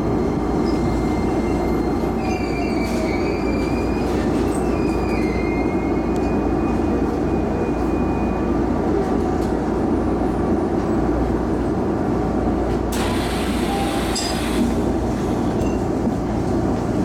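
Interior of a Shizuoka Railway A3000-series electric train rolling slowly to a stop and then standing, with a steady low rumbling hum. A high squeal sounds for a few seconds near the start, and a short hiss comes about thirteen seconds in.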